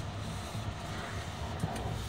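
Steady rumble of a Tohoku Shinkansen Hayabusa train in motion, heard from inside the passenger cabin.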